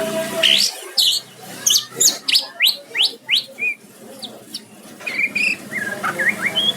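White-rumped shama (murai batu) singing: a run of quick, sharply rising whistled notes, followed near the end by a varied phrase of lower warbled notes.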